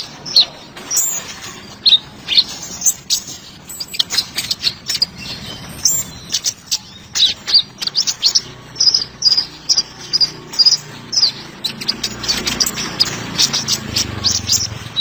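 A kolibri ninja sunbird singing a fast, continuous run of short, high, sharp chirps and trills. A faint low hum sits under the song in the second half.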